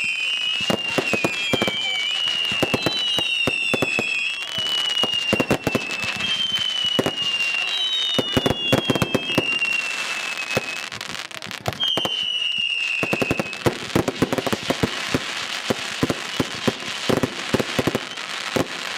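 Fireworks display: a continuous barrage of bangs and crackles, with several shrill whistling fireworks whose whistles glide slowly downward through the first two-thirds. After that the whistles stop and dense crackling takes over.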